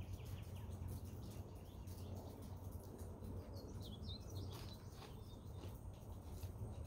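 Faint background with a low steady hum and scattered soft ticks; a bird chirps a few quick notes about four seconds in.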